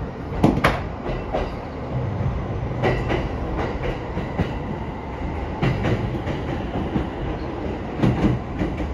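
Running noise inside a moving electric commuter train: a steady rumble of wheels on rail, with sharp clicks at uneven intervals as the wheels pass over rail joints.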